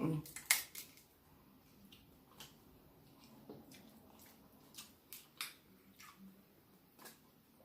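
Snow crab leg shells being cracked and snapped apart by hand, heard as irregular sharp clicks and cracks with quieter eating sounds between them.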